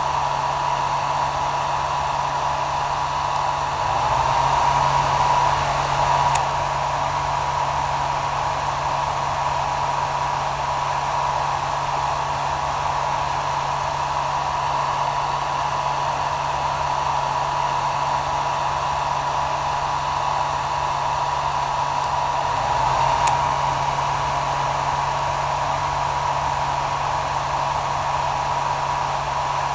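Hair dryer running continuously: a steady rush of air with a thin whine and a low motor hum. It swells a little louder, with the whine rising slightly, twice: about four seconds in and again about twenty-three seconds in.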